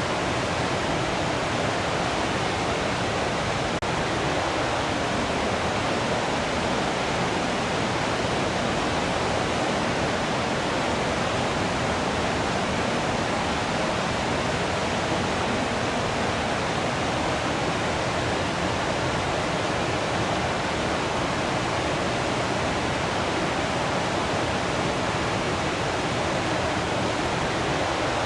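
Waterfall: water falling and rushing in a steady, unbroken roar of white-noise-like sound that does not change.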